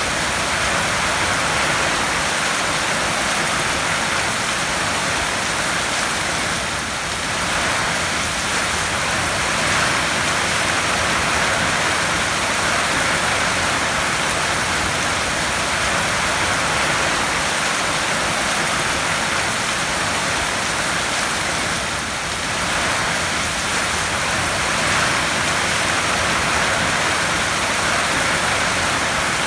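Heavy rain falling on a tin roof: a dense, steady hiss of countless drops that eases slightly twice for a moment.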